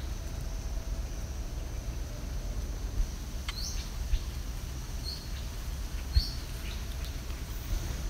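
Outdoor ambience: a steady low rumble with a faint high hiss, and three short high bird chirps in the second half. A couple of soft low bumps are heard, the louder one about six seconds in.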